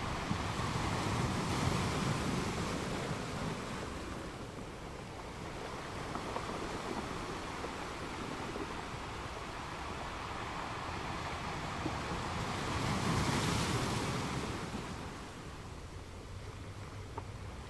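Hands rubbing and pressing paper onto a journal page, heard as swells of rustling hiss over a steady background hiss: a louder swell at the start and another about thirteen seconds in.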